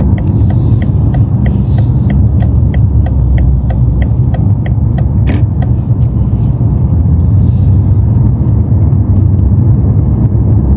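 Steady low rumble of a BMW M5 heard from inside the cabin while driving in town. Over the first half a regular ticking runs at about three ticks a second, then stops, and a single click follows a little later.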